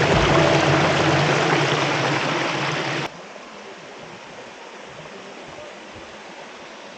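Mountain stream water rushing, loud and full for about three seconds, then cutting off abruptly to a much quieter steady hiss.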